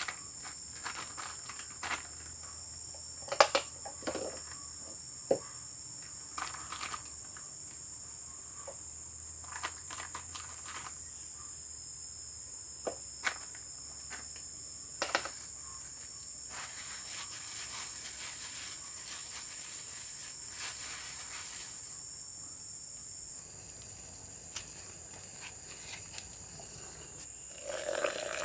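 Steady high-pitched drone of forest insects such as crickets. It is broken by scattered sharp clicks and knocks from close by, the loudest about three and a half seconds in.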